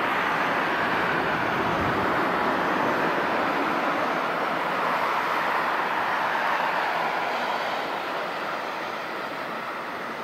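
Jet airliner flying low past on its landing approach: a loud, steady rush of engine noise that swells over the first couple of seconds and eases off near the end.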